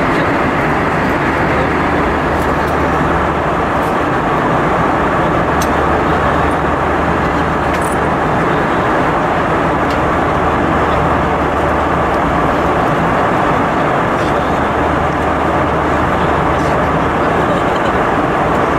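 Steady cabin noise inside an Airbus A320-232 in flight: the constant rush of airflow and the aircraft's IAE V2500 engines, with a steady low hum underneath.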